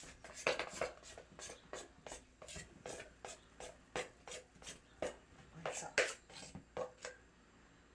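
Spoon stirring thick batter for bolinho de chuva in a bowl, knocking against the bowl a few times a second in an uneven rhythm; the stirring stops about seven seconds in.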